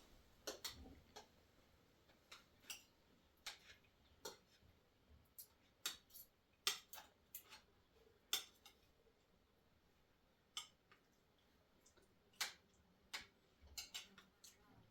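Faint, scattered light clicks and taps, irregularly spaced at roughly one a second, with a lull of a few seconds in the middle.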